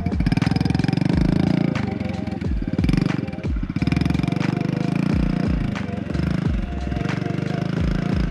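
Kawasaki KLX110's small single-cylinder four-stroke engine running close by as the bike is ridden at low, part throttle, the engine note rising and dipping a little as the throttle is eased on and held.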